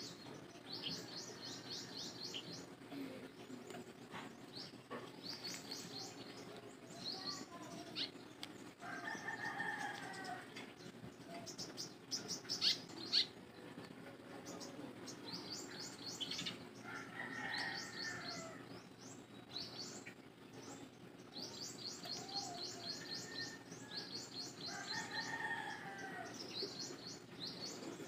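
Small birds chirping in quick, repeated trills of high notes, with a few lower, longer calls now and then.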